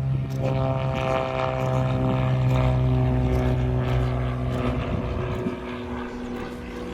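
Cessna 210 light aircraft at full power on its takeoff roll: a steady piston-engine and propeller drone that swells as it passes, drops slightly in pitch, then fades as it climbs away.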